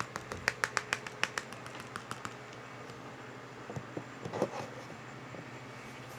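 A quick run of sharp plastic clicks and taps, then softer knocks and rustles about four seconds in: hands handling the black UV ink cartridge for a flatbed UV printer. A low steady hum runs under it.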